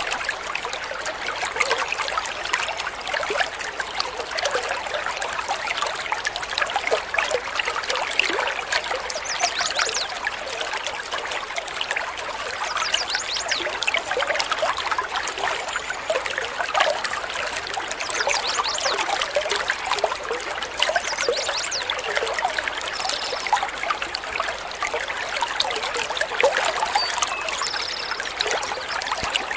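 Water trickling steadily, a dense babble of many tiny gurgles and splashes.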